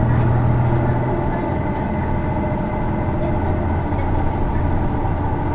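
Isuzu Erga city bus's six-cylinder diesel engine running under way, heard from inside the cabin; its low note drops slightly about a second in. This bus's engine is one known for a characteristic abnormal noise, common on PKG-series Ergas.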